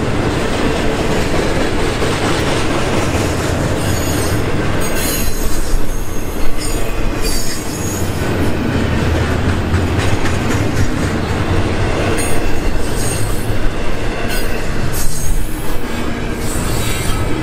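Double-stack intermodal container train rolling past close by: a steady rumble of steel wheels on rail, broken by short, high-pitched wheel squeals that come and go.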